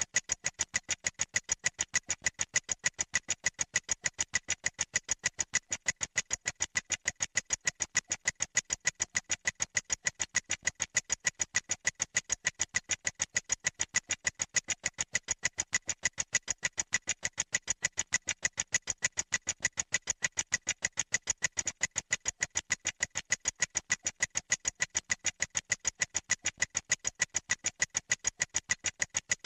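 Clock ticking sound effect: an even train of quick, sharp ticks, several a second, never changing pace.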